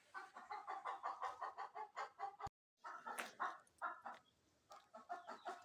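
Chickens clucking: a quick run of short clucks, several a second, broken by a brief total dropout about halfway through.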